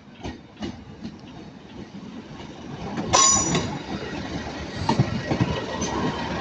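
Northern Class 156 diesel multiple unit arriving, its wheels clacking over rail joints and points and growing louder, with a brief high metallic squeal about three seconds in.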